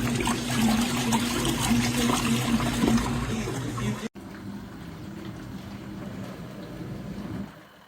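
Costway portable mini washing machine running: its motor hums steadily while water churns in the tub. The sound cuts off suddenly about four seconds in, and a quieter hum follows.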